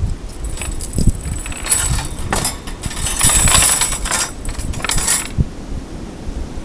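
Steel chain and metal links jingling and clinking against a metal grill grid as they are handled, with scattered sharp clicks. The jingling is densest from about two to five seconds in.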